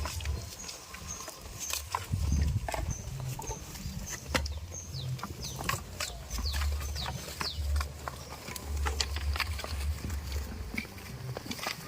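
Farm animal sounds: repeated low rumbling bursts, scattered clicks, and short high chirps.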